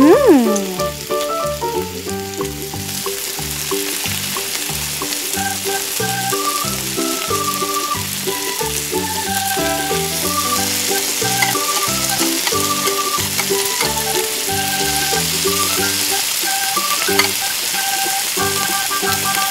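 Food frying in hot oil in a miniature pan, a steady sizzle that grows from a few seconds in, under cheerful background music. A short pitch glide that dips downward opens it and is the loudest moment.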